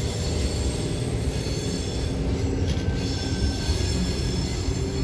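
Tangara electric suburban train running past on the track, a steady rumble of wheels on rails with a faint hum in it.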